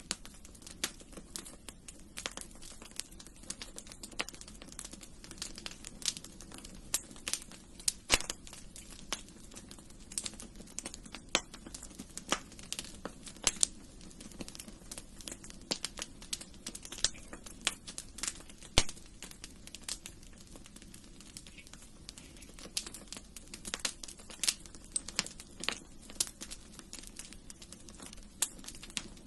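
Wood fire crackling in a fireplace: irregular sharp pops and snaps, several a second, over a faint low rumble of the flames.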